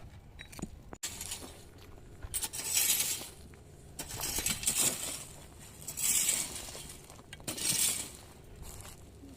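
Repeated swishing or scraping strokes, about one every one and a half seconds, after an abrupt cut about a second in.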